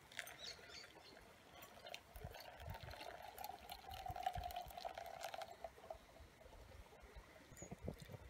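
Liquid being poured steadily into a container for about five seconds, with a few light clicks.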